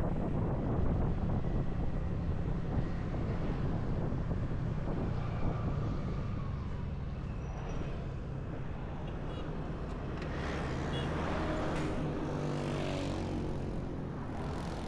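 Motorcycle riding along the road: steady engine and road noise, with the pitch rising and falling several times about ten seconds in.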